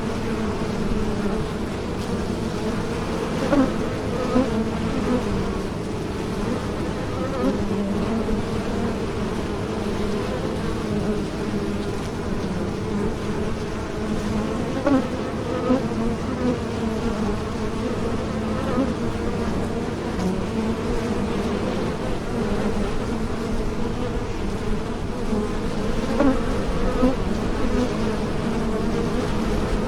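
Bees buzzing in flight: a steady drone of many wings beating together, with brief louder buzzes now and then.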